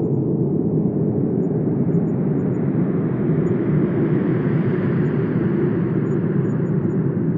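Wind blowing with a deep, steady rumble, a gust swelling to its strongest about halfway through and then easing off.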